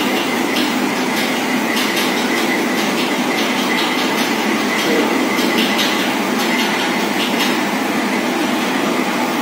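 Steady running noise of a train on the rails, with faint rhythmic clicking.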